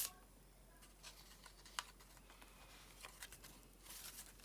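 Faint paper rustles and a few light taps from a handmade paper journal being handled and its pages turned, against near silence.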